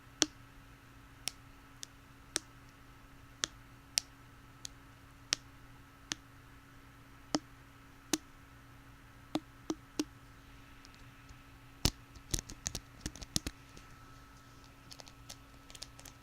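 Cheap plastic hair pick making sharp, separate clicks roughly once a second, then a quick flurry of clicks about three quarters of the way through.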